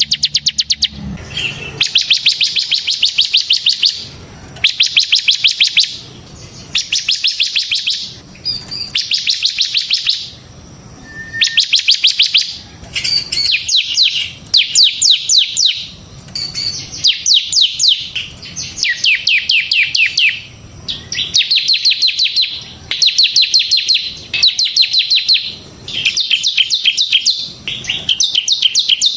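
Bar-winged prinia (ciblek semi) singing its rapid rattling 'ngebren' song: fast trains of high notes in bursts of one to two seconds, repeated with short pauses.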